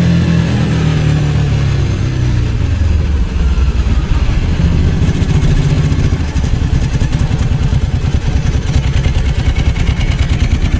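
Ducati 749's V-twin engine slowing, its note falling over the first few seconds, then running at low revs with a rapid, uneven pulsing beat.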